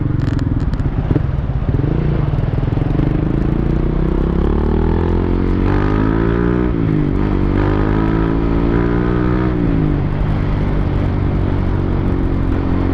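Motorcycle engine pulling through the gears. The revs climb steadily, drop sharply at a gear change about two-thirds of the way in, climb again, then fall off as the throttle closes.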